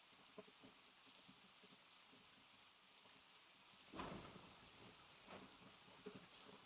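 Faint steady rain, with scattered drops tapping on a surface. About four seconds in comes a sudden louder, low thud that dies away within half a second, followed by two smaller ones.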